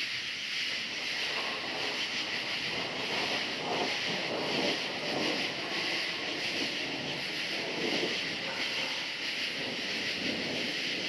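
Crickets chirring steadily over a rushing wash of noise that swells and fades.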